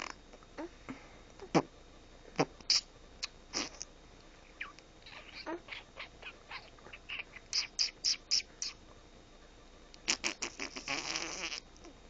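A baby blowing raspberries with her lips, short fart-like sputters in scattered bursts, with a quicker, longer run of them about ten seconds in.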